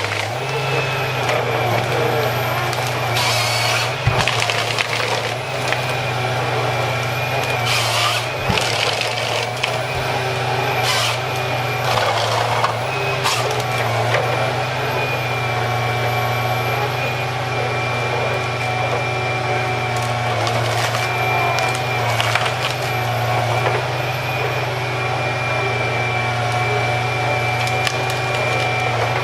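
Heavy tree-cutting machinery running steadily with a constant whine, while wood cracks and splinters in short bursts several times.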